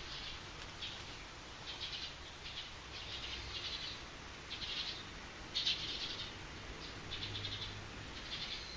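Bird calls: short, buzzy, chattering bursts, high-pitched, repeated about once a second, with the loudest burst about two-thirds of the way through.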